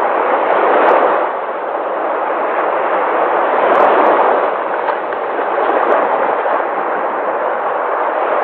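Sea waves breaking and washing ashore: a steady rush of surf that swells and ebbs, with louder surges about a second in and around four seconds in.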